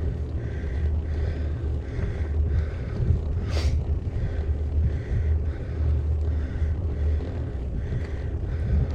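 Wind buffeting the action camera's microphone while cycling, a steady low rumble. A single sharp click about three and a half seconds in.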